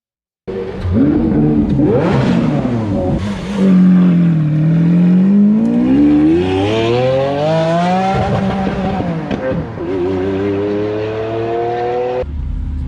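A car engine revving and accelerating hard, its pitch rising and falling several times as it pulls away through the gears. It starts suddenly about half a second in and cuts off abruptly near the end.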